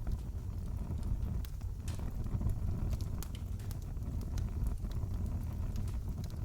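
Wood fire in a fireplace crackling: a steady low rumble of burning with frequent irregular small pops and snaps.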